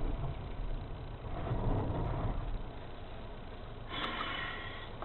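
Car engine and road noise, a low steady rumble that swells briefly in the middle, with a short higher-pitched tone about four seconds in.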